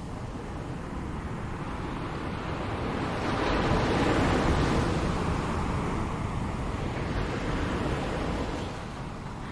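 Ocean surf: waves washing ashore in a steady hiss, with one wave building about three seconds in and slowly easing away near the end.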